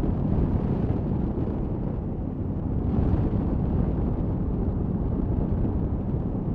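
Riding sound from a 2018 Honda Africa Twin on the move: a steady, loud rush of wind on the microphone over low engine and road noise.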